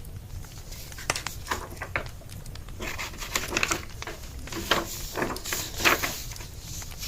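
Wood fire crackling with small scattered pops over a low steady rumble. Through the middle, a run of louder rustling and knocking household noises, the loudest near the end.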